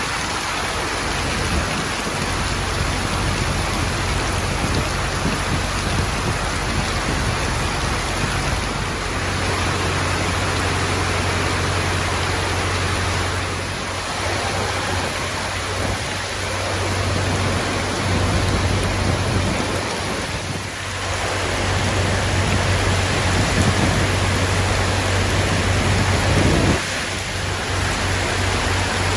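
Heavy rain pouring down in a summer thunderstorm, a dense steady hiss with a low steady rumble beneath it. The sound changes abruptly about four times.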